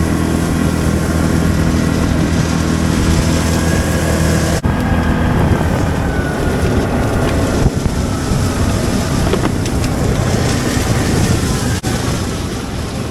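Yamaha Grizzly 700 ATV's single-cylinder engine running steadily while riding, with wind buffeting the microphone.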